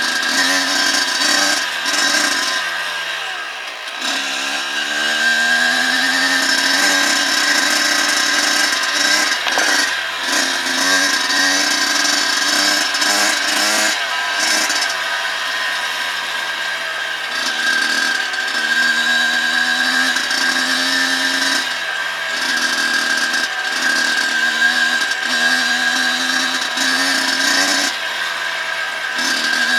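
Dirt bike engine running under way, its revs rising and falling as it rides; the note sinks about three seconds in, then climbs again.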